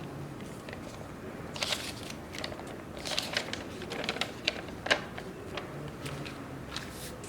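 Irregular light clicks and clatter of hard objects being handled, the sharpest about five seconds in.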